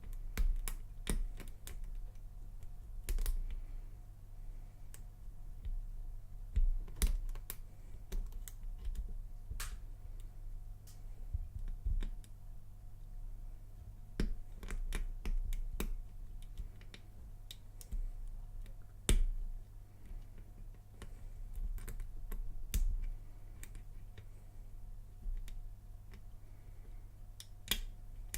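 Lock pick and tension wrench working the pins of a laminated Lockwood padlock: irregular small metallic clicks and ticks as the pins are probed and set, a few of them sharper, over a steady low hum.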